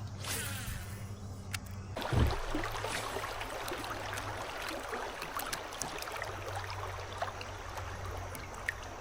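Water trickling and splashing close to a kayak, starting about two seconds in with a soft thump, over a low steady hum.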